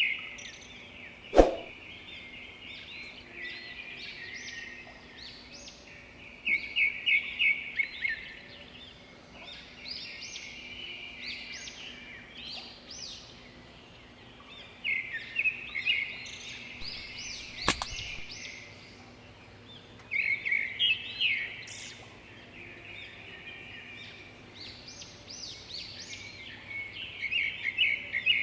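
A flock of small birds chirping and chattering continuously, in louder flurries every few seconds. Two sharp snaps cut across it, a loud one about a second and a half in and a second one near the middle.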